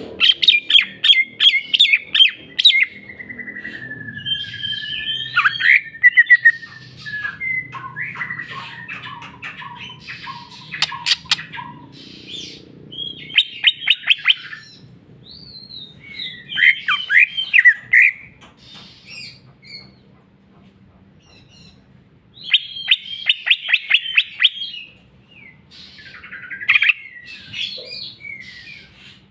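Cucak ijo (green leafbird) singing its varied song: bouts of rapid, chattering trills alternating with whistled phrases, including a long whistle that slides down in pitch a few seconds in. It is running through its repertoire of learned songs mimicked from other birds, with short pauses between phrases.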